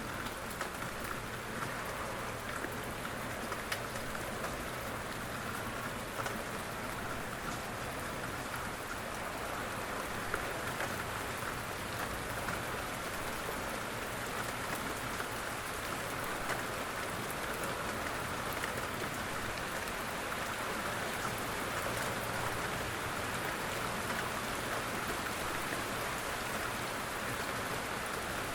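Steady rain falling, with scattered individual drops ticking faintly over the even hiss.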